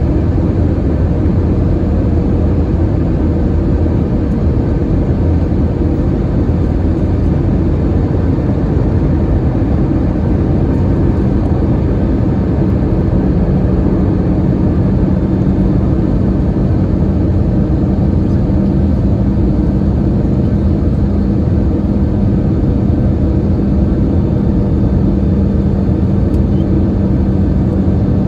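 Steady cabin drone inside an Airbus A321-211 in flight, heard from a seat near the wing: the noise of its CFM56 engines and the airflow around the fuselage. A steady low hum grows stronger about halfway through.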